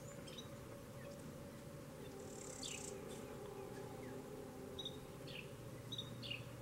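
Quiet background with a low steady hum and scattered faint, short chirps, typical of birds calling outside, from about two seconds in.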